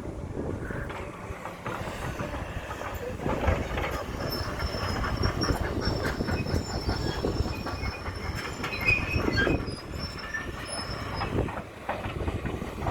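A tram running past on street rails, with a low rumble and a thin, high wheel squeal from about four seconds in to near the end.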